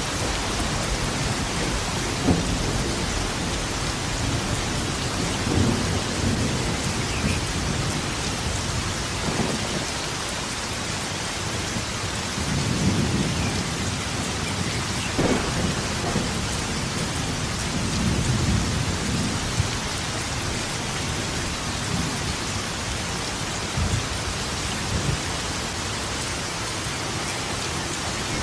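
Steady rain falling, with thunder rumbling again and again through it: several low rolling swells and a few short sharper claps, the strongest about halfway through.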